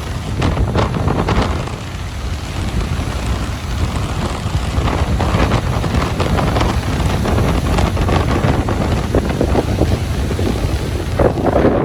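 Ocean surf washing onto a beach, with strong wind buffeting the microphone as a steady low rumble that swells in gusts.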